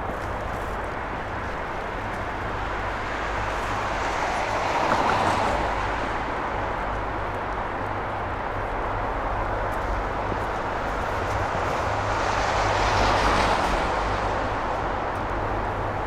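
Steady vehicle or engine noise with a constant low rumble, swelling louder twice, about five seconds in and again about thirteen seconds in.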